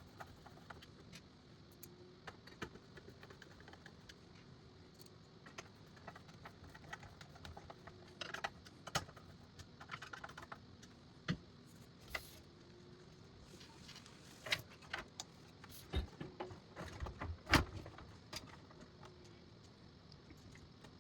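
Scattered small clicks, taps and metallic rattles of a power supply unit and its metal mounting plate being handled and fastened together, with a few louder knocks in the second half.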